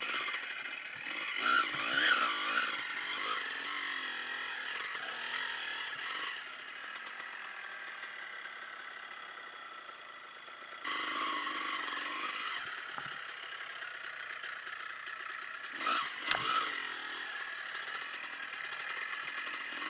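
Dirt bike engine running and revving through a trail ride, picked up by the bike-mounted camera: thin, with little bass, over a constant rattle. A sharp knock sounds about three-quarters of the way through.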